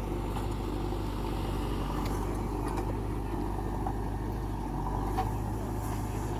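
JCB 3DX backhoe loader's diesel engine running steadily, with a few faint clicks and knocks over it.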